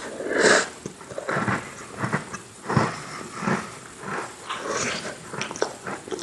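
Close-miked chewing and crunching of Oreo cookies, one wet crunchy bite-and-chew after another, about one to two a second.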